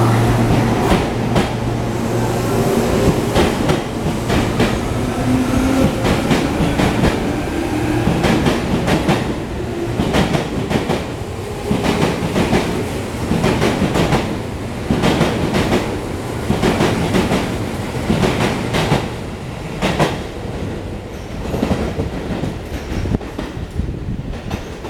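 Tobu 10000 series electric train pulling away. A motor whine rises in pitch over roughly the first ten seconds, then the wheels click over rail joints in quickening groups of beats, and the sound eases somewhat near the end.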